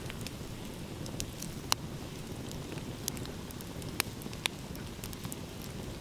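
Wood fire crackling: a run of small ticks with a few sharper pops, about two seconds in and twice near four and a half seconds, over a low steady rumble.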